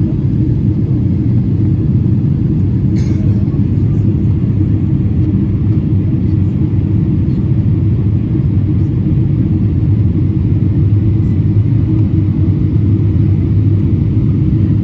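Steady low rumble of a Boeing 777-300ER in flight, heard from the cabin: engine and airflow noise, unchanging, with one faint click about three seconds in.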